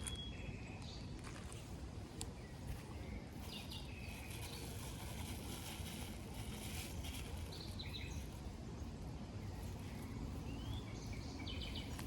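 Birds chirping in short calls several times over a steady, even outdoor background noise.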